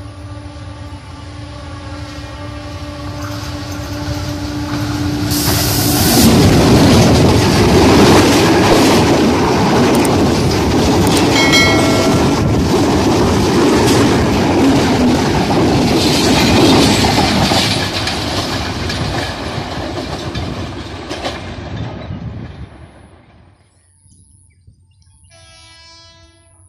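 A diesel locomotive hauling a passenger train approaches with a long steady horn note and grows louder. It passes close by about six seconds in with a loud rumble and wheels clattering over the rail joints. The sound then fades away as the train moves off.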